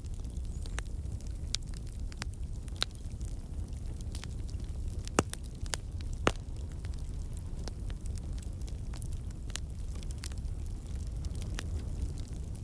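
Wood campfire burning: a steady low rumble of flame with irregular sharp crackles and pops from the logs, two louder pops about five and six seconds in. The crackling is steam and sap escaping from the burning wood.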